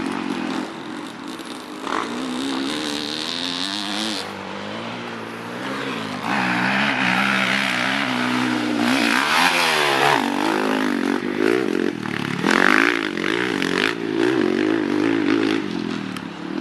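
Honda CRF450 four-stroke single-cylinder motocross engine ridden hard, its pitch repeatedly rising and falling as the throttle is opened and closed and gears change, with a rushing noise over it from about six seconds in.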